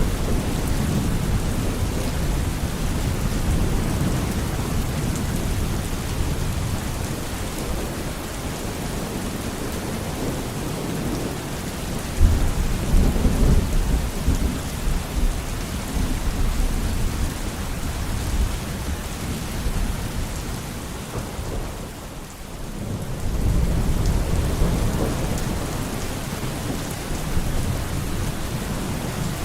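Steady heavy rain with rolling thunder. A sharp low crack of thunder comes about 12 seconds in, and the rain and rumble ease briefly about 22 seconds in before building again.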